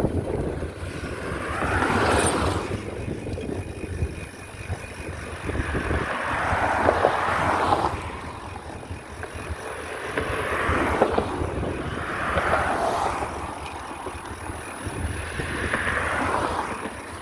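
Wind buffeting the microphone in a low steady rumble, with hissing gusts that swell and fade every three to four seconds.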